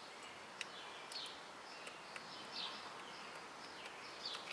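Faint bird chirps, short falling calls repeating about once a second, over a quiet outdoor hiss, with a couple of sharp small clicks.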